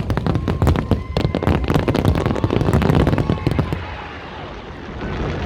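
Fireworks display going off in a rapid, dense string of sharp bangs and crackles, which thin out and quieten after about three and a half seconds.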